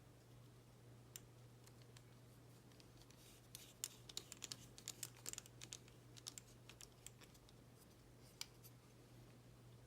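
Faint, irregular small clicks and taps of model-kit parts and a small screwdriver as pieces are screwed together, bunched in the middle with one more near the end, over a low steady hum.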